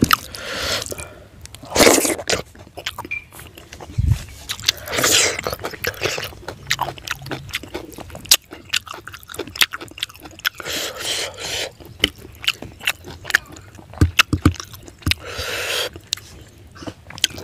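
A person chewing and biting fried fish head and rice eaten by hand, mouth smacking with many short, sharp clicks, and a few longer noisy stretches of chewing.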